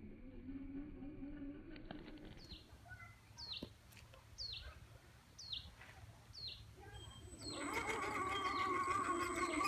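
A bird repeating a short, high, downward-sweeping chirp, about one every 0.8 seconds. Near the end, a small brushed electric motor and drivetrain start running with a louder, wavering whine.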